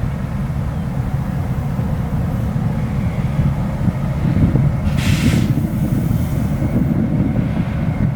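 EMD GP7 diesel-electric locomotive's 16-cylinder two-stroke 567 engine running steadily with a deep rumble, with a brief hiss about five seconds in.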